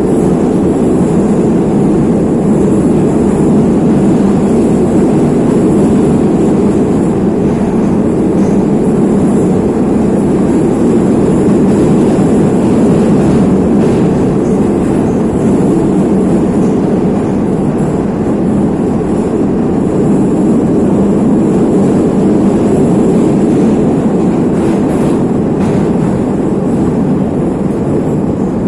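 Neva metro train running at speed through a tunnel, heard from inside the car: a steady loud rumble of wheels on rail and tunnel noise, with a faint high whine and occasional light clicks.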